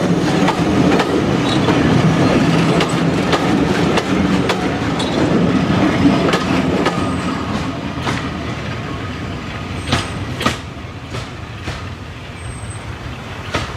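Diesel-hauled heritage train passing on jointed track: the locomotive's engine note is loud at first and fades away through the middle, while the wheels keep clicking over the rail joints as the train draws off.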